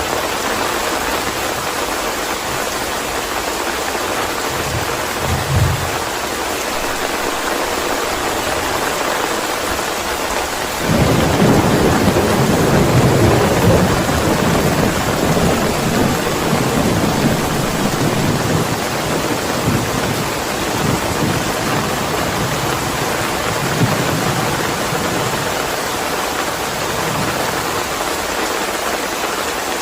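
Steady rain with thunder: a short low thump a few seconds in, then a sudden roll of thunder about a third of the way through that rumbles for several seconds and slowly dies away under the rain.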